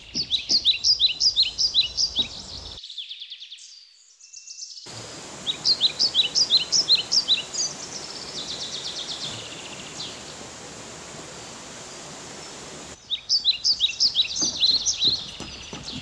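Birds calling in rainforest: quick runs of short, downward-sweeping whistled notes, several a second, coming in three bursts over a steady background hiss. The sound drops out for about two seconds near the start.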